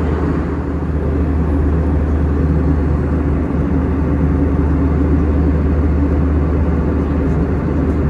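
Steady in-flight cabin noise of an Airbus A321-200: a continuous low drone of the engines and rushing air around the fuselage.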